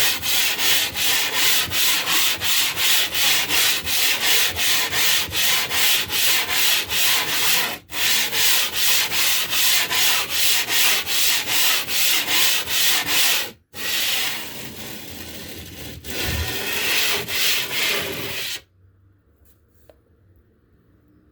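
A piece of limestone being rubbed back and forth against an abrasive surface to flatten its face: a loud, rhythmic rasping scrape at about three strokes a second. It breaks off briefly twice and stops abruptly near the end.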